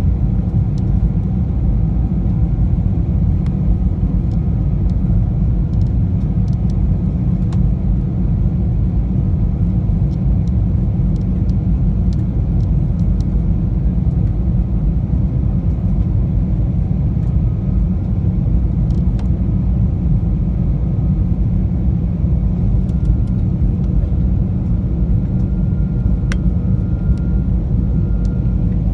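Steady low rumble of an Airbus A320 airliner's engines and airflow as heard inside the passenger cabin, with a faint steady whine above it.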